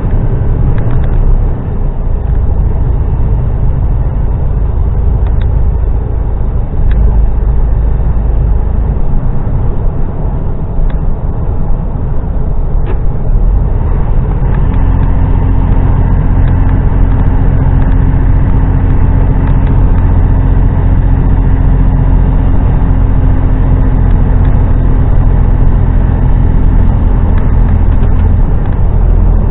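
HGV diesel engine running with road noise while the truck drives, heard from inside the cab. From about halfway through, the engine settles into a steadier, deeper drone.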